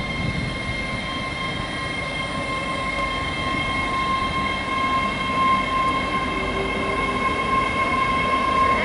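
Avanti West Coast Class 805 Evero bi-mode trains pulling out of the station and passing close by: a steady high whine from the traction equipment over the rumble of wheels on the rails.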